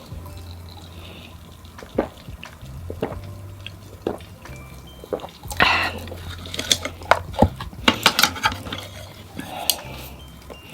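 Cola opened with a short hiss, then poured, crackling and fizzing with scattered clicks and drips.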